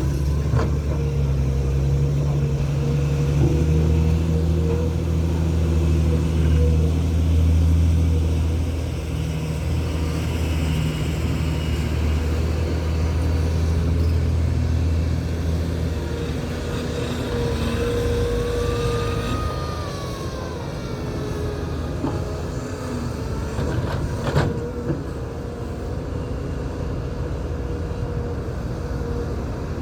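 Large diesel engine of an LCMG MT88 wide-body mining dump truck running heavily, fading away about halfway through. Later a faint whine rises and falls, and there is one sharp knock near the end.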